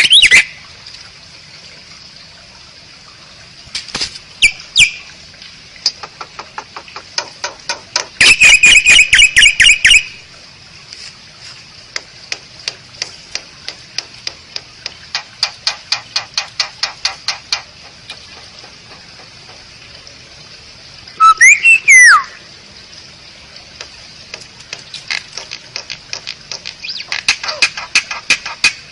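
Asian pied myna (jalak suren) singing: long runs of rapid clicking notes, a loud harsh chatter about eight seconds in, and a short sliding whistle a little past the middle.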